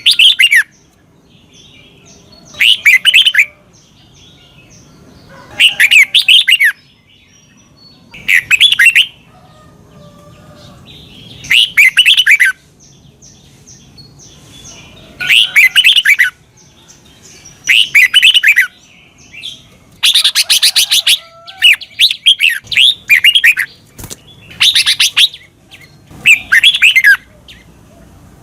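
Red-whiskered bulbul singing loud, short warbled phrases about every three seconds, coming closer together near the end.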